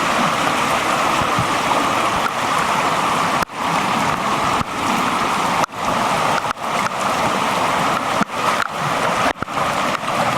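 Floodwater of a rain-swollen creek rushing steadily, with the sound dropping out briefly several times.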